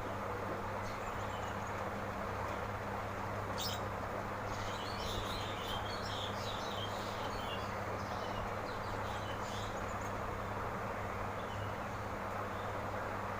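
Birds chirping in the background over a steady hum and hiss, with a single sharp click about four seconds in.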